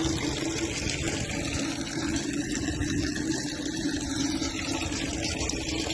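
Liquid gushing steadily, water-contaminated fuel running out of an aircraft fuel tank, over a steady mechanical hum.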